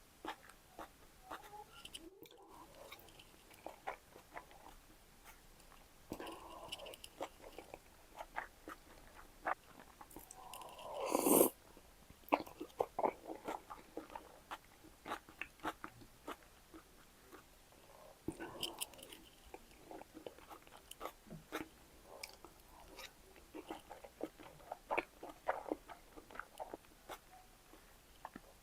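Close-miked chewing of salmon sushi: many small wet mouth clicks and smacks, with a louder rush that builds and stops sharply about eleven seconds in.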